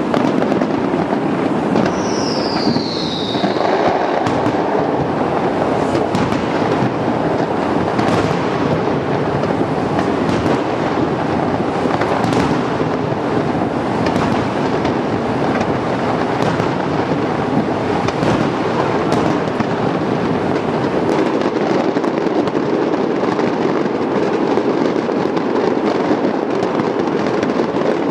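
Fireworks display: a dense, continuous barrage of shells bursting and crackling, with a short falling whistle about two seconds in.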